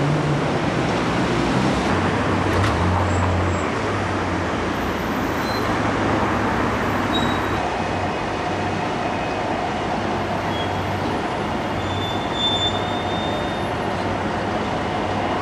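Steady running noise of a moving vehicle: an even rumble with a low hum, joined by a faint steady whine from about halfway through.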